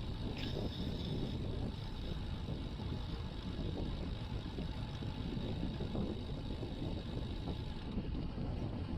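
Steady wind rush on an action camera's microphone while riding a road bike, with a low rumble of tyre and road noise.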